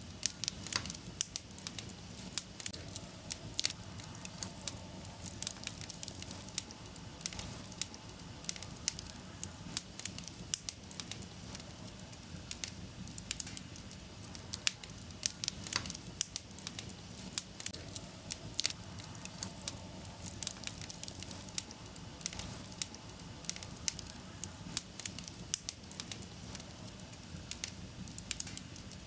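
Wood fire burning in a fireplace, crackling and popping irregularly over a low, steady rush of flames.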